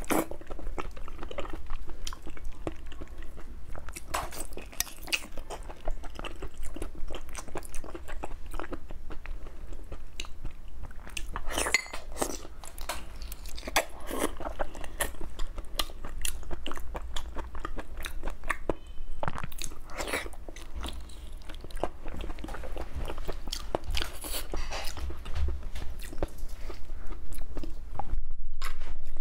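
Close-up chewing and biting of braised pork trotter eaten by hand, with many short clicks from lips and teeth.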